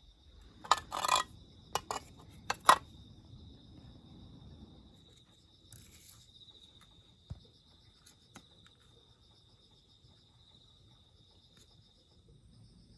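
Steady, pulsing insect chirring, high-pitched, throughout. A few sharp metallic clinks and knocks in the first three seconds, the last of them the loudest.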